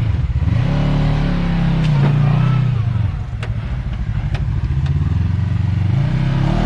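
Side-by-side UTV engine revving up and easing off in two swells under load, with a few sharp clicks in between.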